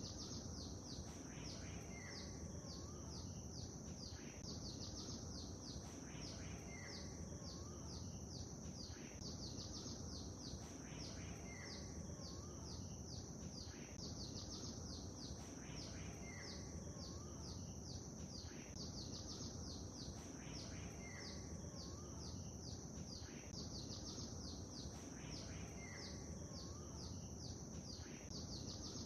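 Birdsong: many rapid high chirps overlapping, with a short two-part call repeating about every five seconds, over a steady low background noise.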